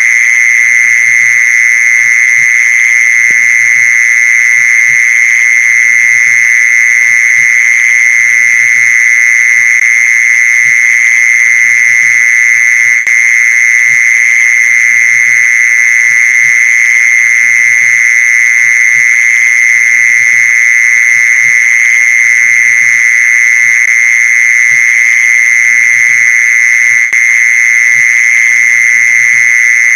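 Mole cricket calling: one loud, unbroken, steady high-pitched trill.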